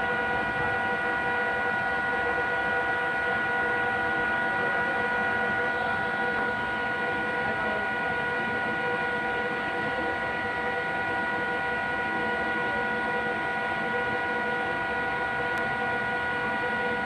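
Passenger train arriving, its running noise under a steady, unchanging chord of several high tones held throughout.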